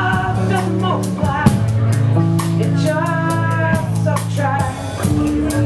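Live band music in an instrumental passage: a drum kit keeps a steady beat with cymbal hits over sustained bass notes and held higher instrumental lines.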